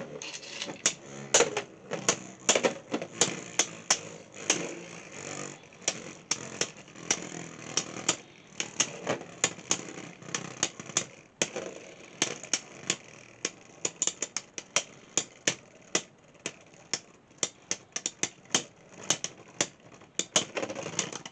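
Two Beyblade X tops, Wizard Rod and Phoenix Flare, spinning in a plastic stadium. They clack against each other and the stadium walls in many sharp, irregular hits over a steady whirring hiss.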